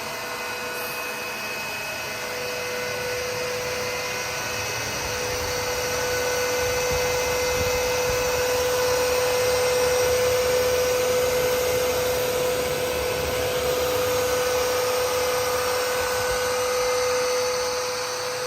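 Aspiron CA-022 wet-dry cordless vacuum running its self-cleaning cycle: a steady motor whine over a rushing noise, growing a little louder toward the middle.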